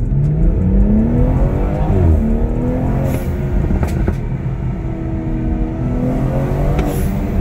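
The BMW 440i's turbocharged 3.0-litre B58 inline-six accelerates at partial throttle. Its revs rise, drop at a gear change about two seconds in, then climb again and hold fairly steady. Two brief high hisses come at about three and seven seconds in.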